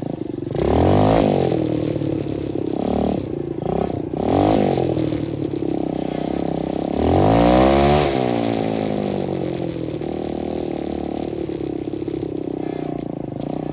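A 125cc dirt bike engine revving up and back down three times, about one second, four and a half seconds and seven and a half seconds in, running steadily between the revs.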